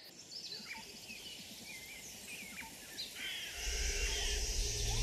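Forest ambience with scattered short bird chirps and calls. About three and a half seconds in, a steady low drone and a high hiss come in and hold.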